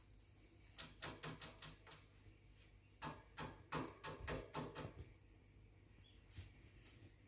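A cockatiel tapping and rattling about in its cage: two runs of quick, sharp clicks, the first about a second in and the second from about three to five seconds in, with no whistling.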